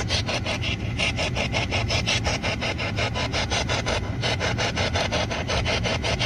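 Spirit box sweeping through radio stations: a steady, rapid chopping of static, about six short hisses a second.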